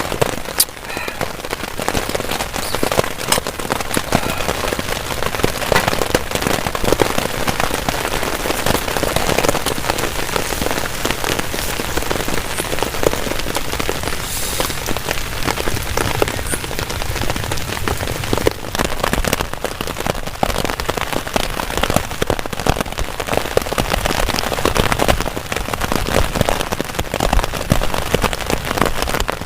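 Heavy rain falling on a tarp shelter: a dense, steady stream of drop impacts that keeps up without a break.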